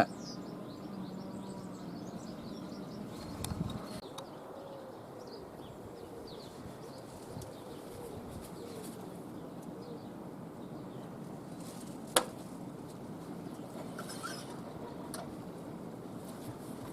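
Birds chirping faintly over a steady low background hum, with a single sharp click about twelve seconds in.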